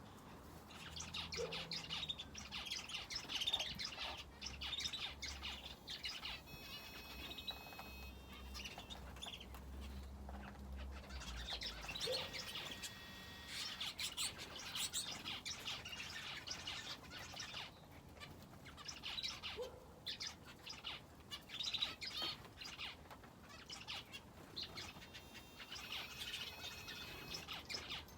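Aviary finches and a canary chirping and twittering continuously, many birds at once, in waves with short lulls.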